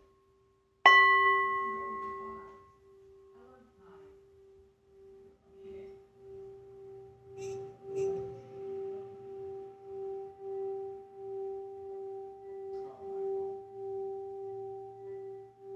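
Singing bowl struck once about a second in, then ringing on in one steady tone that swells and fades in an even slow pulse. It is played as the sound of the root chakra, Muladhara.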